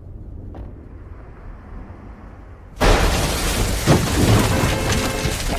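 Quiet background for nearly three seconds, then a sudden loud blast that carries on as a loud, noisy rush, with a further thump about a second later.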